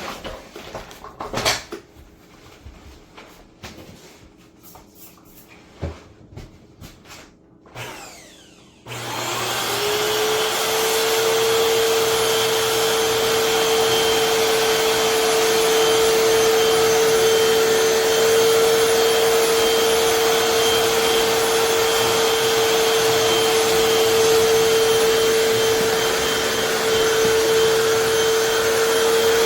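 Scattered clicks and knocks, then about nine seconds in the motor of a Hoover FloorMate Deluxe wet/dry hard floor cleaner switches on: its whine rises briefly and then runs steadily and loudly.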